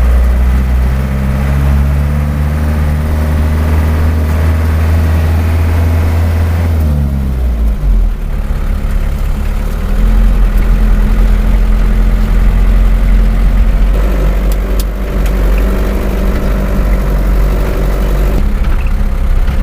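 Truck engine running steadily; about seven seconds in its note falls away and after a brief dip it runs on at a lower pitch.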